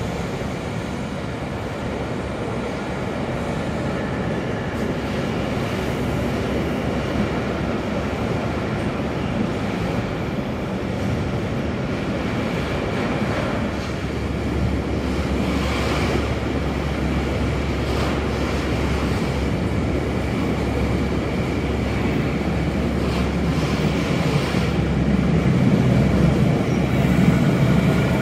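Red Hamburg S-Bahn electric train approaching over the railway bridge and pulling into the station, its rumble growing steadily louder and strongest near the end.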